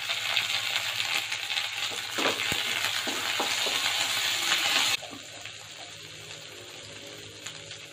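Shallots, coriander and curry leaves frying in hot oil, sizzling as a wooden spatula stirs and scrapes them around the pan. The sizzle is loud, then drops suddenly to a much quieter hiss about five seconds in.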